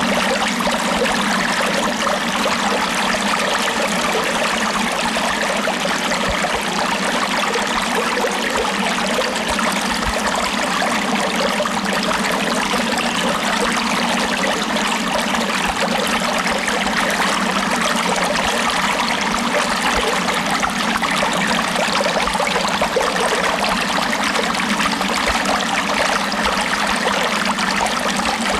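Steady running water: an even, unbroken rush with no pauses or changes, thin in the low end.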